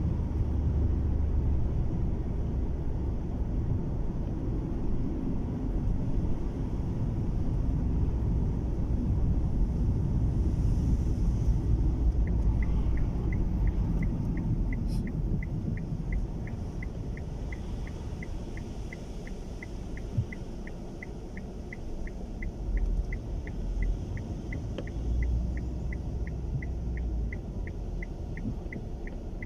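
Car cabin noise while driving in strong wind: a steady low rumble of road and wind. About twelve seconds in, a regular ticking of about two to three clicks a second starts and keeps going: the car's turn-signal indicator.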